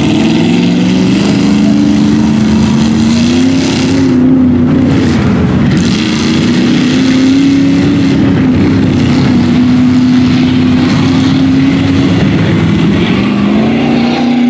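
Truck engines held at high revs under heavy load, their pitch wavering up and down and climbing again near the end.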